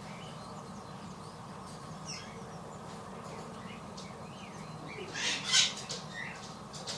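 Small garden birds chirping and twittering faintly at a feeder, with a louder brief burst of sharp sounds about five seconds in.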